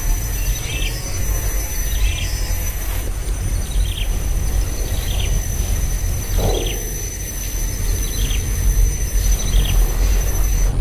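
A bird repeating a short chirp about once a second, over a steady high insect whine and a constant low rumble. About six seconds in, a brief lower sound slides downward.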